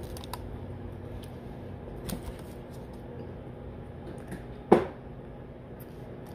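Eating sounds: a bite of cheeseburger being chewed, with a few soft clicks and one sharp click or mouth smack about three-quarters of the way through, over a steady low hum.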